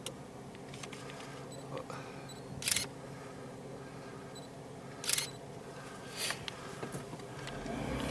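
Single-lens reflex camera shutter firing: two sharp shots about two and a half seconds apart and a weaker one a second later, over the steady low hum of a vehicle.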